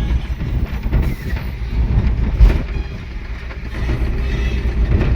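Truck on the move: a steady low rumble of engine and road noise, with one loud thump about two and a half seconds in.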